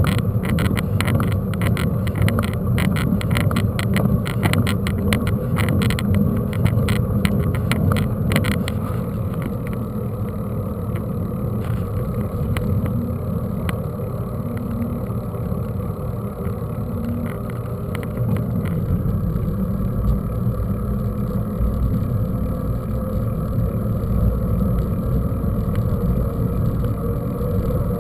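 Mountain bike riding over rough ground with wind rumbling on the microphone: dense rattling and clicking for the first eight seconds or so, then mostly a steady rumble that deepens later on.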